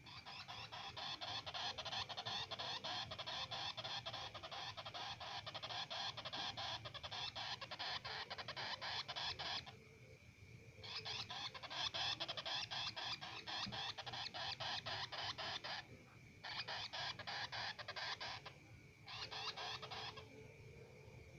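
Pet bird making a rapid, harsh chattering call in four long runs, the first about ten seconds, broken by short pauses. It is the insistent food-begging call of a hungry bird.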